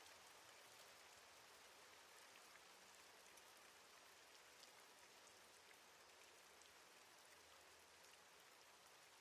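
Faint, steady rain falling, an even hiss with scattered light drop ticks.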